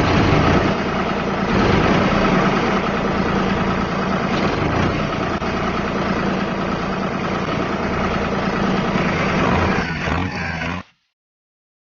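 Tractor engine running steadily, then cutting off suddenly near the end.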